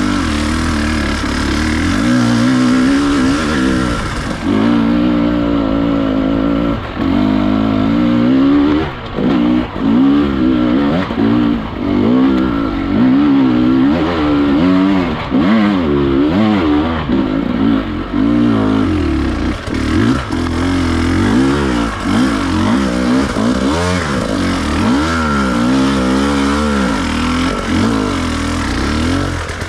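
Enduro dirt bike engine revving up and down over and over as the throttle is worked in short bursts.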